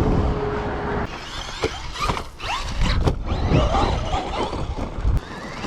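Traxxas Maxx V2 RC monster truck's brushless electric motor whining as it revs up and down, with a few sharp knocks from the truck's chassis and tyres.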